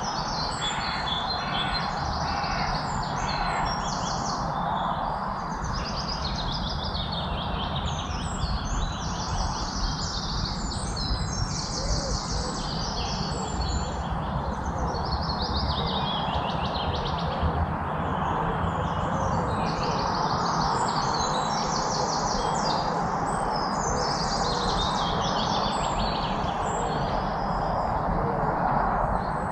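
Many songbirds chirping and trilling over one another, a dense chorus of short high repeated notes, over a steady low background rush.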